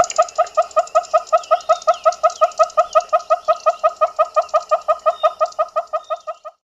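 A southern African bird calling: a long, even series of short notes, about seven a second, that stops suddenly near the end.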